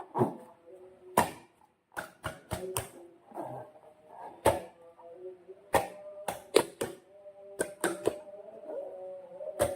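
Slime squeezed and stretched by hand, giving irregular sharp wet clicks and snaps, about a dozen, between softer squishing.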